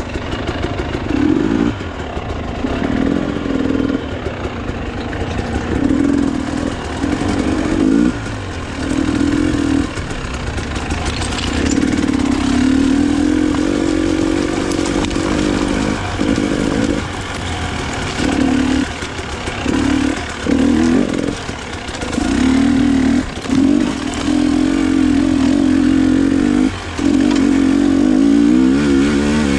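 Enduro motorcycle engine under load on a trail ride, the throttle opened and closed over and over, so the note keeps rising and falling with short drops as the rider rolls off.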